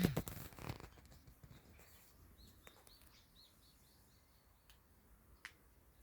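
A small songbird giving a quick run of about ten high, repeated notes a couple of seconds in, faint against a quiet forest background. A brief louder rustle at the very start and a few faint clicks later.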